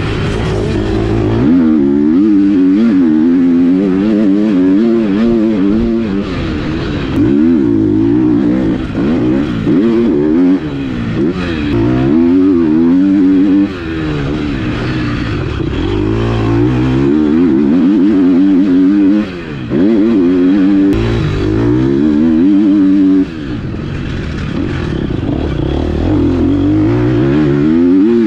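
GASGAS MC 250F four-stroke single-cylinder motocross bike engine ridden hard, revving up and down over and over, with a few short drops where the throttle closes.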